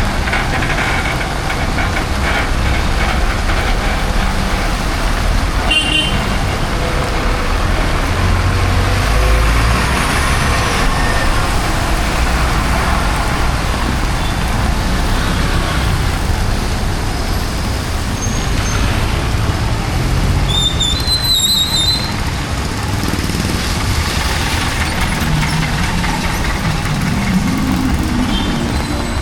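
City street traffic, with vehicles running past, over a steady hiss of heavy rain. Short high-pitched squeals sound about two-thirds of the way through.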